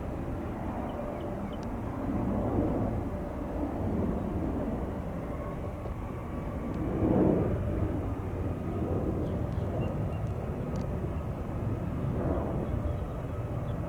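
Distant jet airliner engines rumbling, a steady low noise that swells a little a few times.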